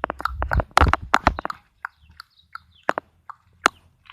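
Chickens pecking at food: a quick flurry of sharp taps in the first second and a half, then single taps every half second or so.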